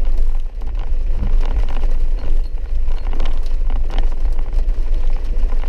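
Vehicle cabin noise while driving a dirt mountain road: a steady low rumble of the engine and road, with many small taps and knocks throughout.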